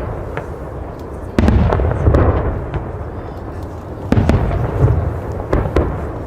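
Fireworks going off: sharp cracks and pops over a deep rumbling boom, with two loud surges of bursts about a second and a half in and again about four seconds in.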